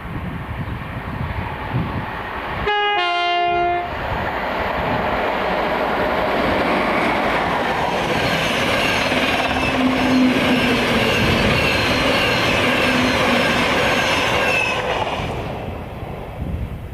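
Train sounding a two-tone horn, a short high note then a longer lower one, then passing close by with the wheels running loudly over the rails and fading away near the end.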